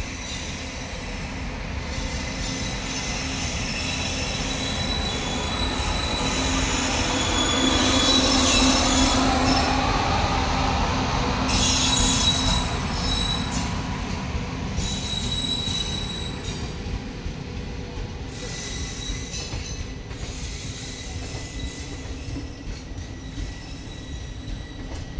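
An Indian Railways WAP-7 electric locomotive hauling a passenger express approaches and passes close by, its sound growing to a peak as the locomotive goes past about halfway through. Then the coaches roll by with a steady wheel rumble and high wheel squeal that comes and goes.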